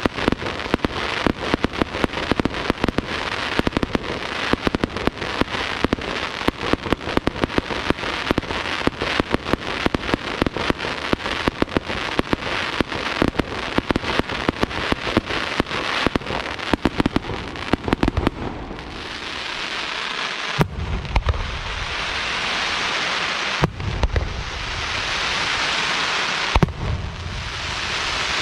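Aerial fireworks display: a long, dense run of rapid crackling reports. About two-thirds of the way in it gives way to a steady hissing crackle, with deep shell bursts about every three seconds.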